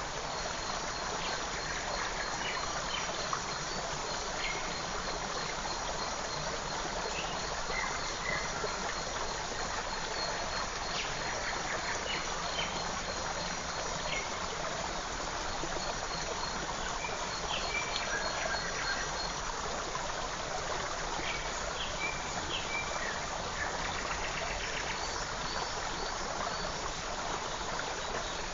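A small forest stream running steadily, with short scattered bird chirps and calls over the water.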